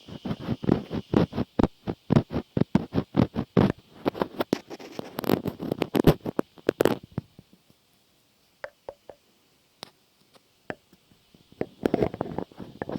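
Close-miked ASMR trigger sounds: a quick run of crackly taps and scratches for about seven seconds, then only a few scattered clicks, starting up again near the end.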